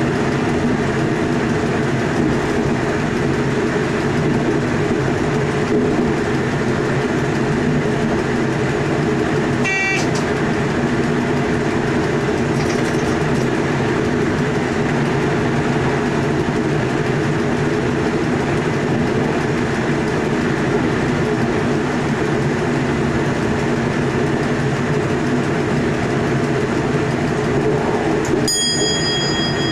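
Steady running noise of an electric passenger train heard inside the driver's cab, with a continuous hum and the rumble of wheels on rail. Near the end a cab bell rings once and keeps ringing, the signal bell given for passing a signal at proceed. A brief tone also sounds about ten seconds in.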